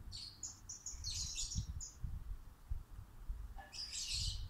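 Songbird chirping: quick runs of short, high notes in the first two seconds and again near the end, over a low rumble.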